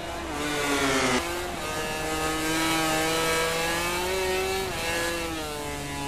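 MotoGP racing motorcycle's four-cylinder, four-stroke engine at high revs. The pitch falls over about the first second, changes abruptly, then holds high with gentle rises and dips.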